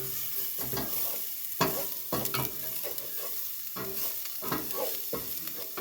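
Minced garlic sizzling in olive oil in a pot while a spatula stirs it, with irregular scrapes and taps of the spatula against the pot. The garlic is frying toward golden brown.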